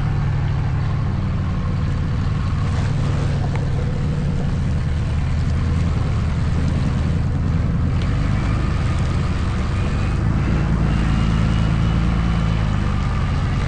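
Truck engine running steadily at low speed on a rough trail, with a faint rising whine in the middle.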